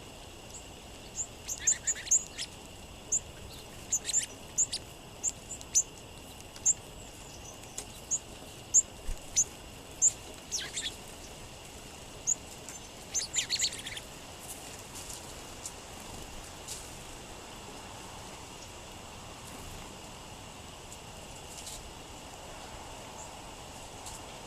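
Small songbirds giving many short, high chip calls in quick succession, thinning out to a few scattered chips in the second half.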